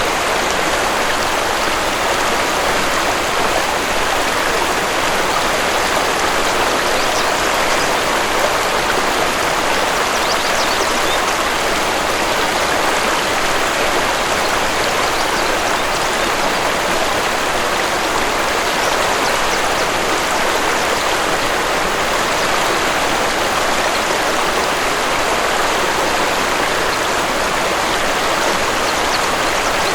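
Waterfall rushing steadily, an even, unbroken sound of falling water.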